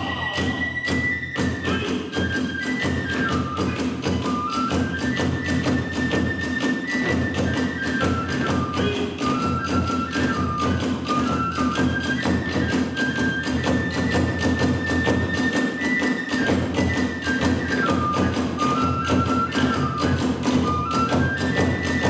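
Kagura hayashi: a bamboo transverse flute plays a stepping melody over a fast, steady drum beat with clashing small hand cymbals.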